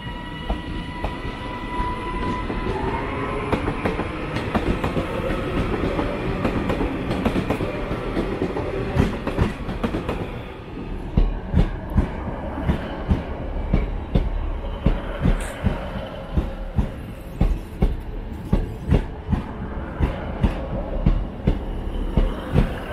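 Pair of Class 156 diesel multiple units running in slowly, with a thin whine fading in the first few seconds; from about eleven seconds in the wheels clack over rail joints and pointwork at a steady beat of roughly two clacks a second.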